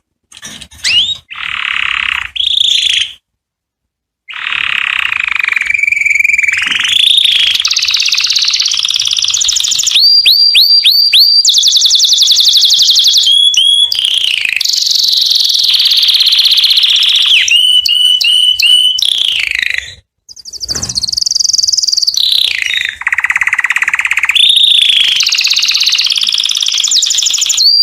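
Canary singing: a long song of fast trills and rolling, rapidly repeated notes, with a short break about three seconds in.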